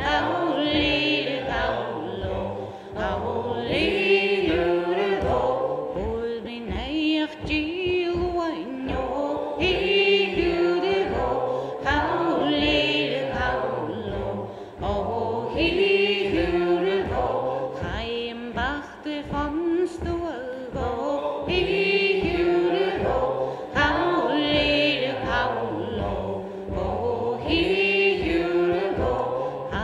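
A group singing a Gaelic milling song in chorus over a steady beat of thumps, about two a second, from wet wool cloth pounded on a table to shrink it.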